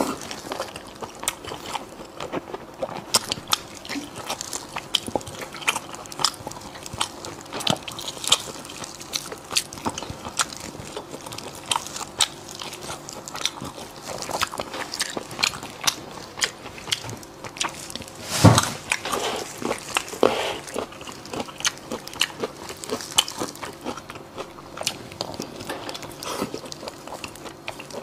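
Close-miked eating sounds: wet biting and chewing of sticky glazed meat, with many small irregular clicks and smacks of the mouth. One louder, deeper thump comes about two-thirds of the way through.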